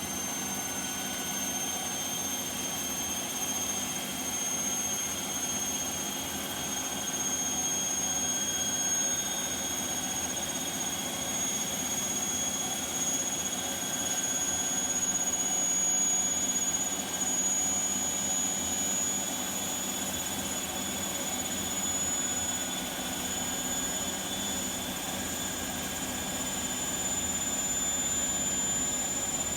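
Bosch WAK28260GB/11 washing machine spinning at high speed, a steady running sound with a high whine that slowly rises in pitch as the drum speeds up. The machine is being run on a 1400 spin to check for suspected worn drum bearings.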